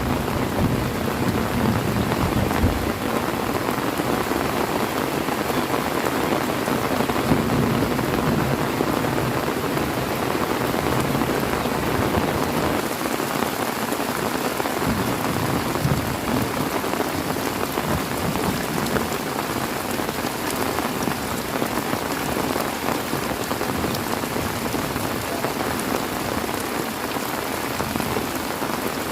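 Heavy rain falling steadily in a dense, even hiss. A low rumble of thunder dies away in the first few seconds.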